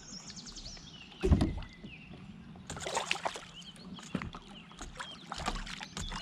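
Knocks and clicks of gear and paddle being handled in a kayak, with one heavy thump against the hull about a second in.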